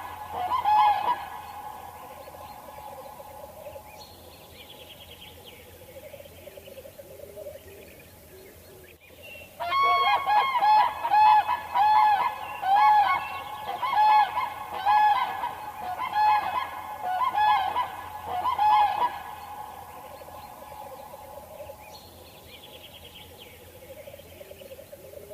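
Geese honking: a short run of calls at the start, then after a quieter stretch of faint chirps a louder run of about a dozen honks in quick succession, about ten seconds in.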